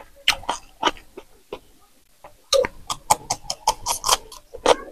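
Close-miked mouth sounds of biting and chewing raw green chillies: a string of irregular, sharp crunches and wet clicks, several a second.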